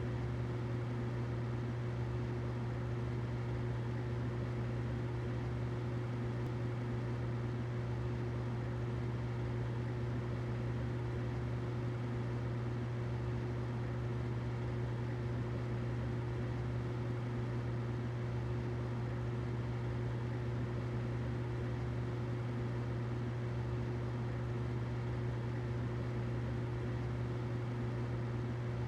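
Humidifier running: a steady low hum with an even hiss over it.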